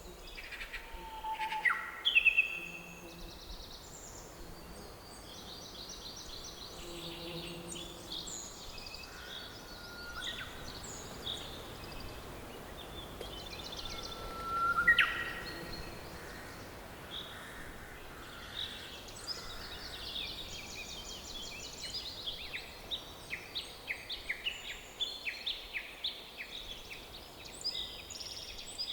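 Forest songbirds singing and calling over a soft steady background hiss. Two loud rising whistled calls stand out, about two seconds in and again about fifteen seconds in. Quick repeated chirps and trills crowd the last third.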